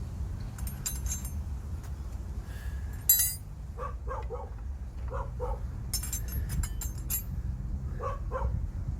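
A dog barking in short double barks, three times, between metallic clinks and one sharp metal clang about three seconds in, over a steady low rumble.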